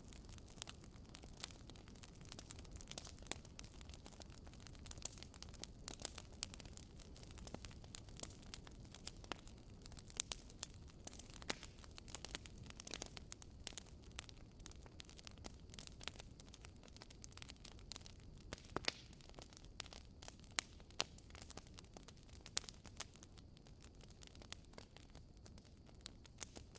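Firewood crackling in a fireplace: irregular sharp snaps, some louder than others, over a soft low rumble of the burning fire.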